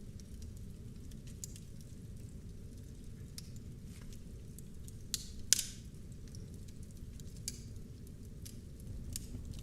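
Wood fire burning in a fireplace: a steady low rumble of flames with scattered small crackles, and two sharper pops about five seconds in.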